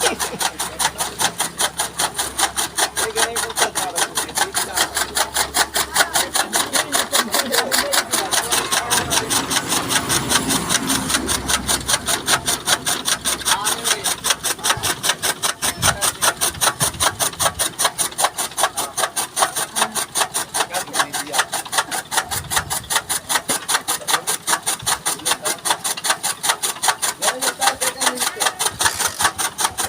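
Chaff cutter (toka machine) chopping maize stalks into fodder: a fast, even rhythm of sharp cutting strokes, several a second, that keeps going without a break.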